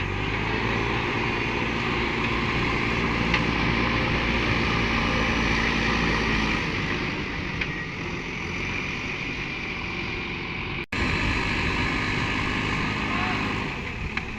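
Heavy diesel engine running steadily, its note shifting about halfway through. The sound cuts out for an instant about eleven seconds in.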